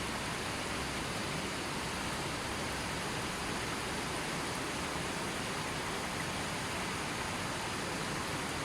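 River water flowing steadily, an even, unbroken rush of water with no birds or other sounds.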